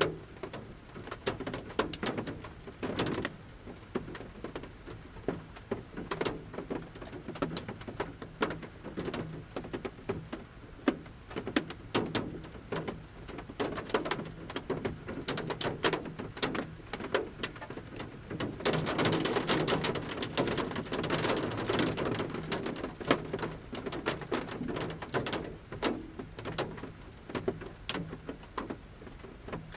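Large raindrops falling from a forest canopy onto the metal roof of a camper van, heard from inside: irregular taps and plops, thickening into a denser, louder patter about two-thirds of the way through.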